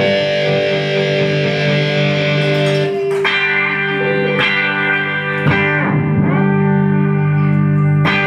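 Electric guitar played through effects, strumming chords and letting them ring, with fresh strums several times from about three seconds in.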